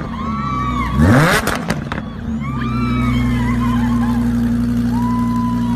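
Car engine revving hard once, its pitch rising and falling about a second in, then running at a steady pitch.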